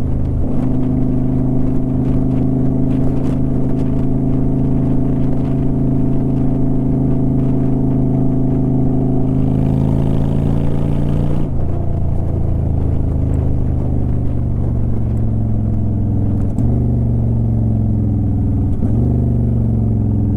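2009 Honda Shadow Aero 750's 745 cc V-twin running steadily under way, its exhaust note dropping in pitch about halfway through, with brief dips in the last few seconds.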